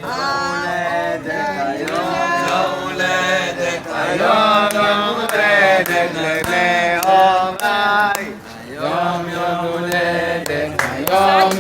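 Voices singing a Hebrew song in long chant-like phrases over a steady low drone, with scattered clicks.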